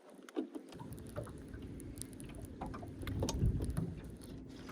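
Wind gusting on the microphone as a low, uneven rumble, with scattered small clicks and knocks.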